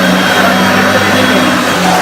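Hoover Concept One S3305 upright vacuum cleaner running with a steady motor hum and airflow hiss. Its Automatic Power Drive is engaged with no grinding from the clutch, a sign that the clutch is fine.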